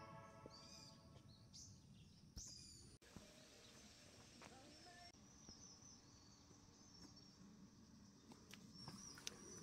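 Faint natural ambience with a few short, high-pitched bird chirps, most in the first two and a half seconds.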